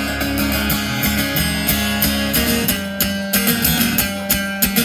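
Rock band playing live: guitars strummed over a steady bass and drum hits, with no singing.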